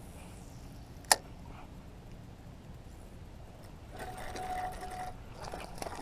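A single sharp click about a second in. From about four seconds in, a spinning fishing reel is cranked to retrieve line, giving a steady mechanical whir with a thin steady whine that breaks off briefly and starts again near the end.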